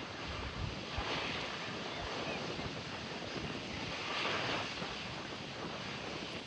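Gusty wind rushing over the microphone, with low rumbling buffets. It swells about a second in and again at around four seconds.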